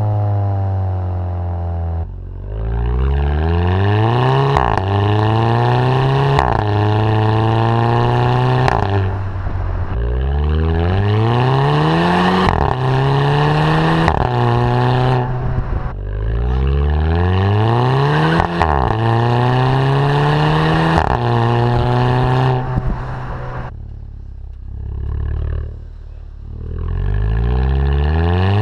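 Turbocharged VW Beetle 2.0 TSI four-cylinder accelerating hard through its DSG gearbox, in about four pulls. In each pull the engine note climbs and drops sharply at every upshift, each shift marked by a short exhaust crack or 'fart'.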